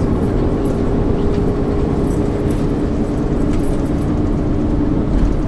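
Inside a 1999 MAN ÜL 353 intercity bus under way: steady diesel engine and road rumble, with a whine that steps down in pitch about halfway through and light rattling in the cabin.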